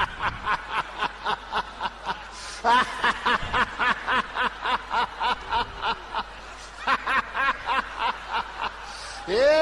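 A person laughing in three long runs of rapid, rhythmic ha-ha pulses with short breaks between them. The laughter follows a call to "laugh" in the prophecy.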